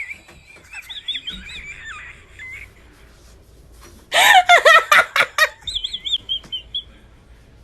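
Bird calls: wavering, warbling high chirps, with a much louder burst of calls about four seconds in.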